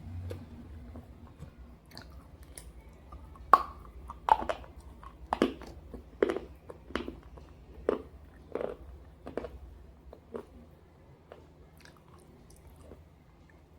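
Close-up chewing of pieces of slate with red gravy: a run of about a dozen sharp, dry crunches, roughly one to two a second, starting about three seconds in and dying down near the end.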